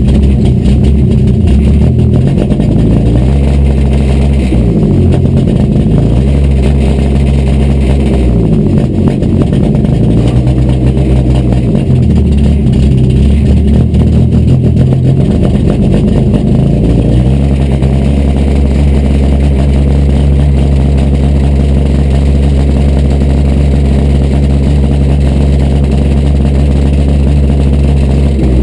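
Acura Integra ice-race car's four-cylinder engine, heard from inside the stripped cabin, revving up and down several times. After about seventeen seconds it holds a steady pitch.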